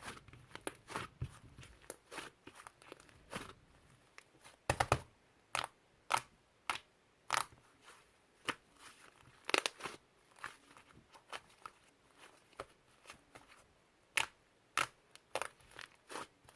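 Fluffy white slime being squished and poked by hand, giving irregular sticky clicks and small popping crackles, with a few louder pops.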